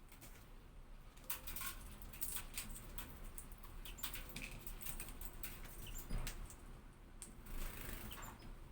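Irregular sharp clicks and short scratchy rustles, with a denser cluster about a second in and again near the end, from a hawfinch moving about and fluttering.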